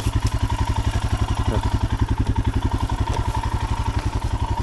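Royal Enfield Himalayan's 410 cc single-cylinder engine idling, an even rapid thumping of about a dozen beats a second.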